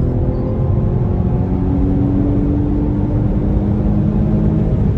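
BMW M135i's turbocharged four-cylinder engine pulling hard under acceleration, heard inside the cabin: the engine note climbs steadily, then falls near the end as the automatic gearbox upshifts.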